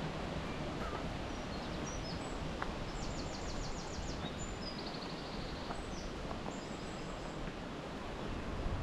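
A small songbird singing high, quick twittering phrases with two rapid trills, over a steady rush of wind noise.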